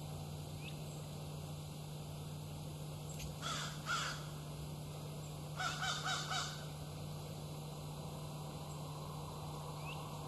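Birds calling: two short harsh calls about three and a half seconds in, then a quick run of about four notes around six seconds in.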